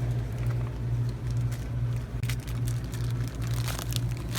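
A steady, slightly pulsing low mechanical hum, with a few faint light clicks of metal parts being handled about halfway through.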